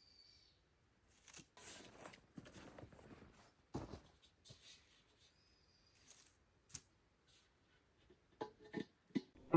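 Faint, scattered rustling and light clicks, with a few sharper ticks near the end.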